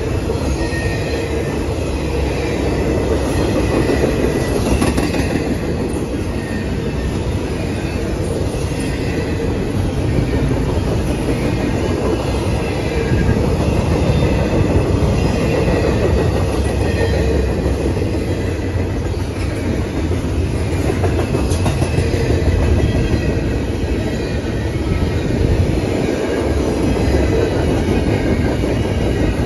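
Double-stack intermodal freight train's well cars rolling past close by: a steady rumble of steel wheels on rail, with a faint high squeal from the wheels and occasional clanks.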